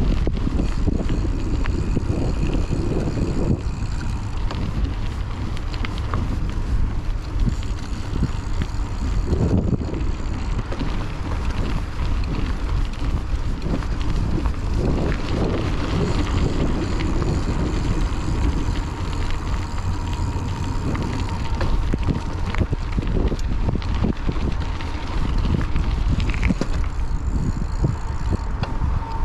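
Wind buffeting a chest-mounted action camera's microphone over the rumble of a Raleigh Trailblazer hardtail mountain bike rolling along a dirt trail, with many small rattles and clicks from the bike.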